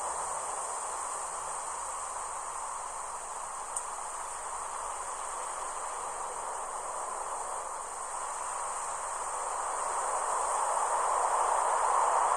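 Ocean surf washing in: a steady rush of waves that eases, then builds again toward the end. Under it runs a constant high chirring of insects.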